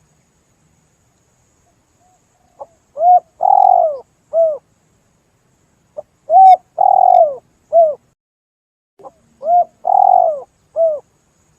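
Spotted dove (tekukur) cooing: three identical phrases about three seconds apart, each a run of short arched coos around one longer middle note.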